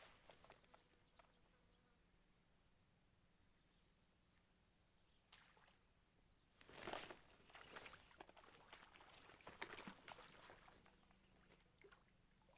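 Faint outdoor near-silence with a steady high insect drone, broken by scattered soft rustles and clicks, the loudest about seven seconds in.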